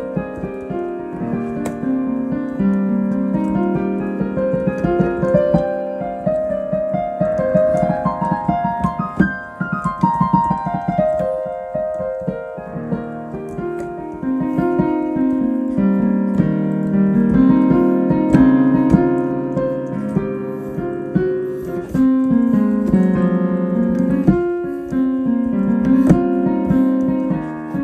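Solo piano improvising: flowing runs of notes that climb and fall across the keyboard over a low, sustained accompaniment, with a busy passage of rapidly struck notes in the middle.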